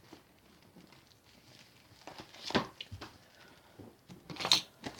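Packaging being handled while a magazine gift is unwrapped: two short rustles, about two and a half and four and a half seconds in, between faint handling noise.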